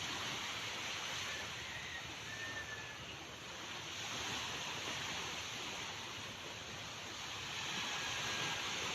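Calm sea waves washing in, a steady hiss with slow, gentle swells in loudness.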